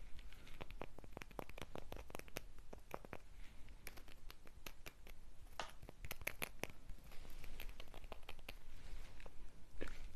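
Quick, irregular clicks and crackles of snacks and their wrappers being handled and torn, with no voice.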